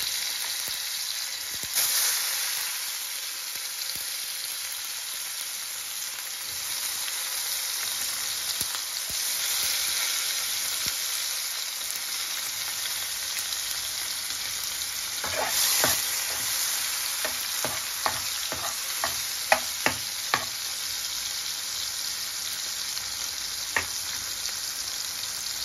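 Chopped tomatoes sizzling in hot oil with cumin and green chillies in a kadhai, a steady frying hiss that swells sharply about two seconds in as more tomato goes into the pan. In the second half comes a run of sharp ticks and taps.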